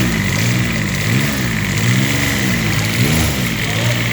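Rebuilt Kubota D722 three-cylinder diesel engine on its first test run, the throttle blipped so the revs rise and fall about four times before settling back to a steady idle near the end.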